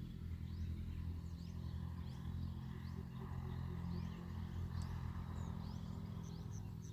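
Birds chirping outdoors in short, rising calls, several a second, over a steady low hum.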